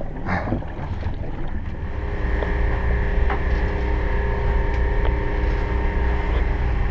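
Steady low mechanical hum with a few constant tones from a motor aboard a sailing catamaran, under wind and water noise. The hum comes up about two seconds in and holds.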